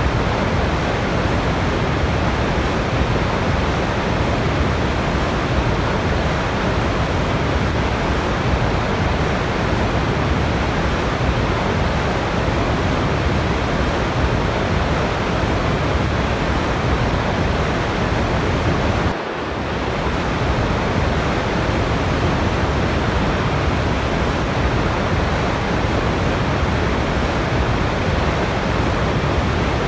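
Steady rushing of a waterfall, water pouring without a break. The sound drops out for a moment about two-thirds of the way through and comes straight back.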